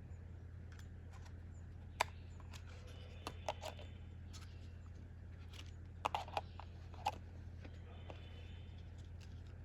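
A few sharp clicks and light knocks, single and in small clusters, over a steady low hum.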